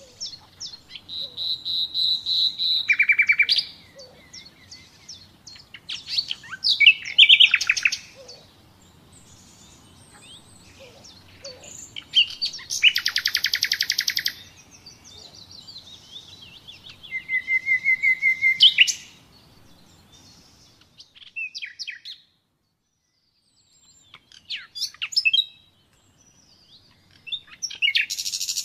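Common nightingale singing: a run of varied phrases — a held whistle, strings of rapidly repeated notes, a loud buzzy trill — separated by short pauses, with a brief silent gap about two-thirds of the way through.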